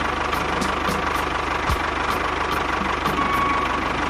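Tractor engine idling steadily with a fast, even low chug.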